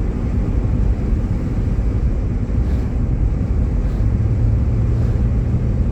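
Steady road and engine noise inside a Jeep Grand Cherokee's cabin while driving on snow-covered roads. A low steady drone joins in about four seconds in.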